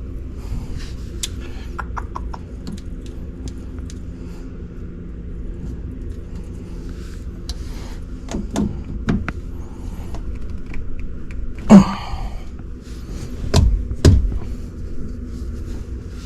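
Steady low machine hum with scattered light clicks and knocks; a sharp bang about twelve seconds in, then two heavy thumps shortly after.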